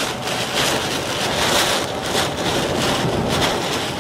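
Heavy wind-driven rain beating on a moving car, heard from inside, with tyre spray from the flooded road. The noise is steady and loud, and the hiss of rain swells in surges about every half second.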